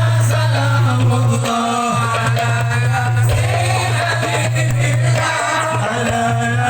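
Live sholawat: voices singing an Islamic devotional song over amplified musical accompaniment, with a constant low drone beneath.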